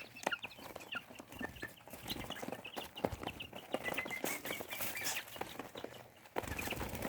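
Young chicks peeping, many short high chirps overlapping, with scattered soft clicks and taps among them.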